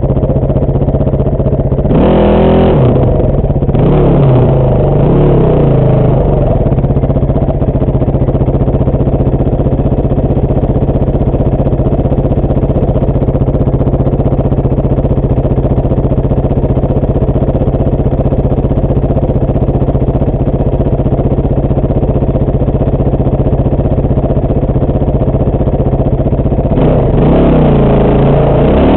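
Dirt bike engine idling steadily, with a short blip of the throttle about two seconds in and rising revs near the end as the bike pulls away.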